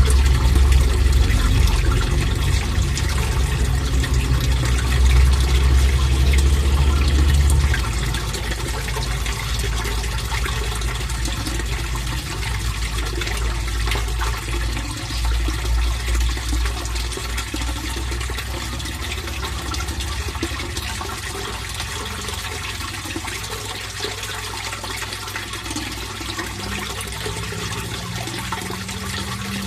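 Water flowing and splashing steadily into a fish pond. A deep low rumble underneath eases off sharply about a quarter of the way in, and the water carries on.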